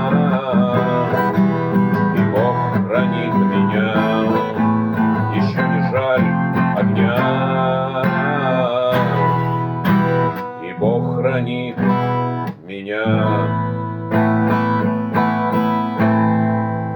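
Acoustic guitar strumming chords in the closing bars of a song, with a voice holding long wordless notes over it.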